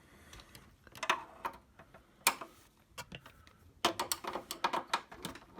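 Irregular small clicks and taps from hand work on an HP 3330 printer's plastic casing while its top cover screws are being taken out: a few spaced clicks, then a quick run of them about four seconds in.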